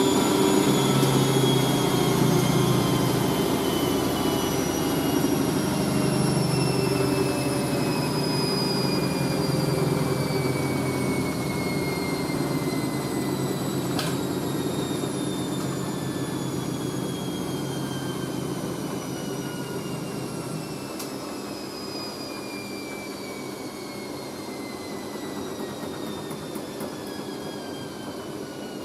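Hoover A3060 Electronic 1100 washing machine spinning down after its final spin: the motor whine falls steadily in pitch and the running noise fades as the drum slows. A click comes about halfway through, and another about two-thirds in, when the low hum drops away.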